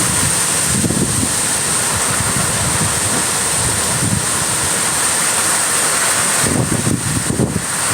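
Hurricane-force wind from Hurricane Beryl blowing steadily, with gusts buffeting the phone microphone as low rumbles over a constant loud hiss.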